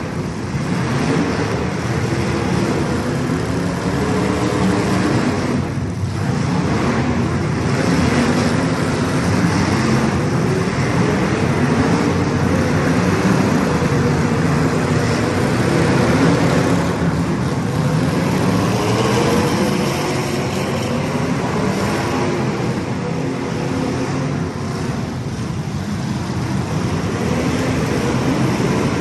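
A pack of small race-car engines running at speed, several pitches overlapping and rising and falling continuously as the cars circle the track.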